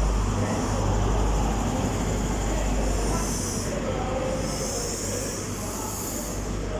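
Class 43 HST power car's diesel engine rumbling as the train runs into the platform to terminate, slowly fading, with bouts of high hissing in the second half.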